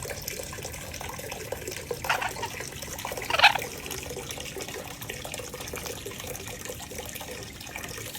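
Golden conures giving two short squawks, one about two seconds in and a louder one about three and a half seconds in. Behind them runs a steady rushing like running water.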